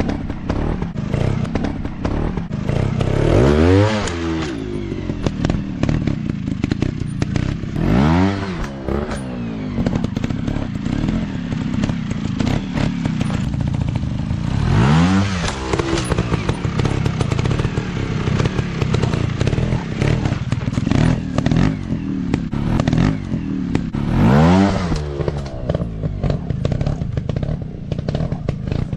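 Dirt bike engine running on the throttle, revving up and dropping back in short bursts about four times, with lower running between.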